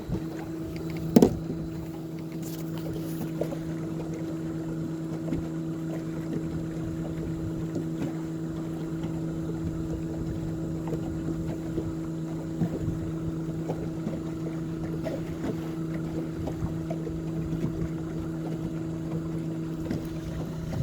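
Boat motor running steadily at trolling speed, a constant low hum with water and wind noise around it, and a single sharp knock about a second in.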